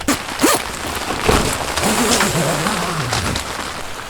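Rain falling, a steady dense pattering that comes in suddenly, with a few sharper knocks of drops in the first second and a half.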